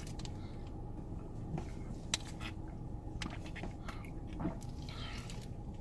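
A person chewing food, with a few short clicks and taps scattered through it over a steady low room background.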